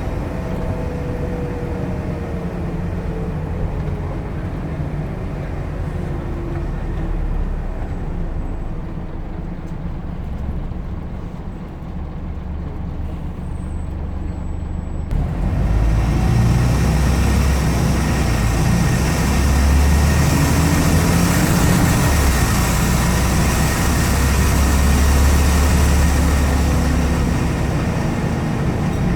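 Scania N94UD Omnidekka double-decker bus engine heard from the back seat, near the engine: the engine note falls and runs quieter at first. About halfway through it gets suddenly louder, and the engine note then rises as the bus accelerates.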